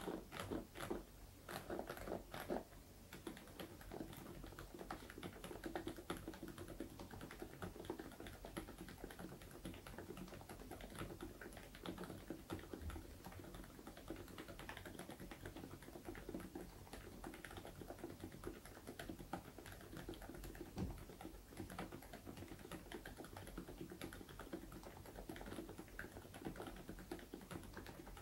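Fast typing on an Interpixel IPK104 PRO full-size mechanical keyboard with Leobog Cotton Candy silent switches. A few separate keystrokes come first, then from about three seconds in a quick, continuous run of soft key presses.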